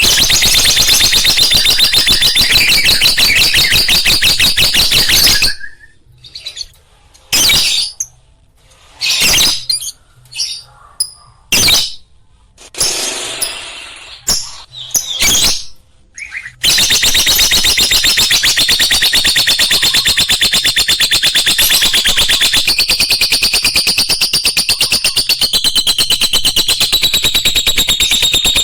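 Lovebird chattering loudly in a fast, continuous, shrill trill. It breaks into separate short chirps about six seconds in, then goes back to the unbroken trill for the last dozen seconds.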